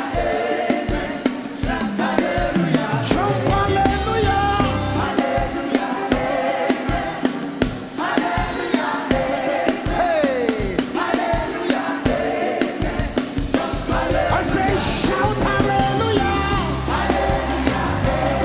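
Live gospel worship music: voices singing together over a band with a steady drum beat.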